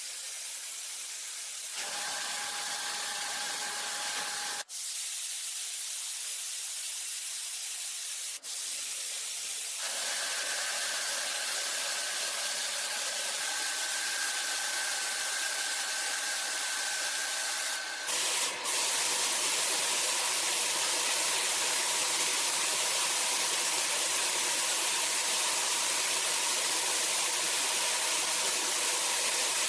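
Steady, loud hiss of a compressed-air tool jetting air, with a faint whine in it. It breaks off briefly and changes in loudness a few times, as if cut between takes.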